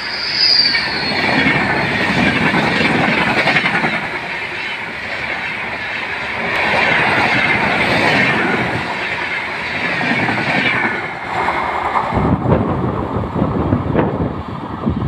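Indian Railways LHB passenger coaches running past close by on a curve: dense wheel-and-rail rushing with a wavering high squeal from the wheels on the curve. About twelve seconds in, this gives way abruptly to a duller, uneven rumble.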